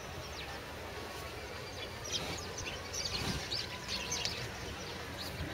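Small birds chirping: a flurry of short, quick high chirps, busiest in the middle, over a low steady background noise.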